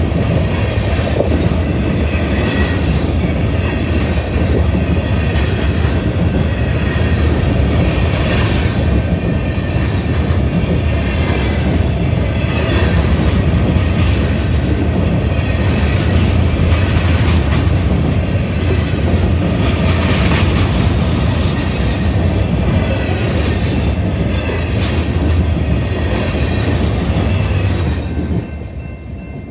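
A long Union Pacific grain train of covered hopper cars rolling past, a steady loud rumble with wheels clacking over rail joints. The sound drops off sharply near the end.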